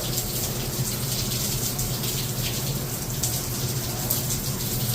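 Spa shower running with its side jets on, a steady hiss of water spraying onto the tiled stall.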